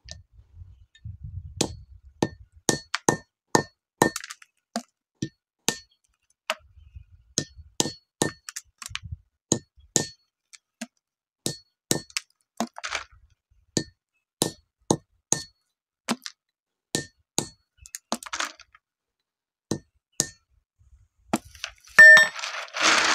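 Andız (Syrian juniper) fruits being cracked open: repeated sharp knocks, about one to two a second, with a faint metallic ring. A louder clatter near the end.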